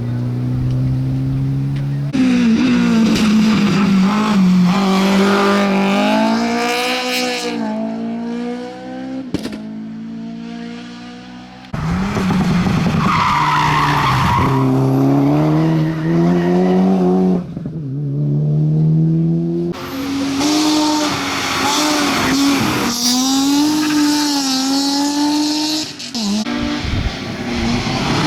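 Rally cars on a hill-climb stage, engines revving hard through gear changes with their pitch climbing and dropping, and tyres skidding on the road. Several separate passes follow one another with abrupt changes of sound about 2, 12, 20 and 26 seconds in.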